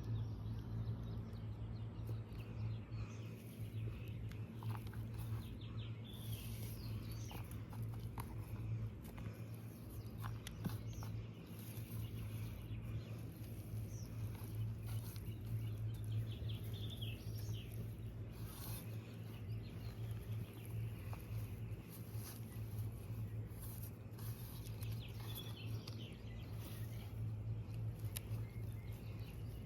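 Outdoor garden ambience: birds chirping now and then over a steady low hum, with small taps and rustles from hands working the soil.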